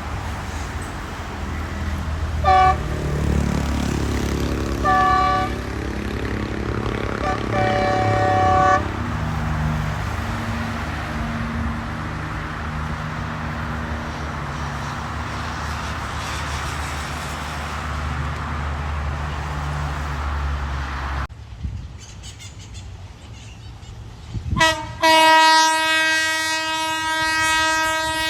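Passing train's engine running with a low steady rumble, its horn sounding two short toots and then a longer blast within the first nine seconds. After a sudden drop in sound, a train horn sounds again near the end, one long blast at a lower pitch.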